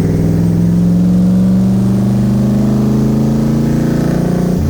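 Twin-turbo Nissan VK56 V8 in a 300ZX pulling steadily in gear, its note rising slowly. The pitch drops off sharply right at the end.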